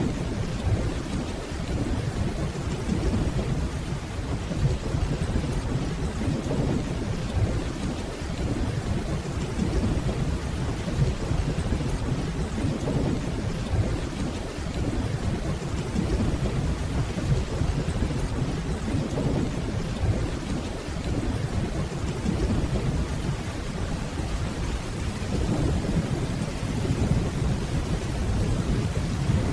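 Steady rainfall with a continuous low rumble of distant rolling thunder beneath it, swelling slightly near the end.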